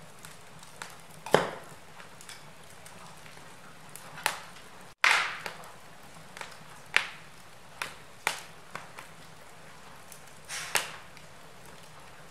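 Wood fire burning in a fireplace, crackling: irregular sharp pops and snaps from the burning logs, several seconds apart, over a steady low hiss. The sound cuts out for an instant about five seconds in, followed by one of the loudest pops.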